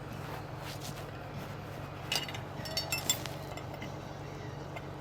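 Metal hand tools clinking together, a short cluster of ringing clinks about two to three seconds in, over a steady low hum.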